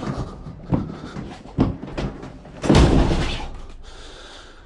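A discarded washing machine's metal cabinet knocking and thudding as it is grappled and lifted, with a few light knocks and one heavy clattering thump nearly three seconds in that trails off over the next second or so.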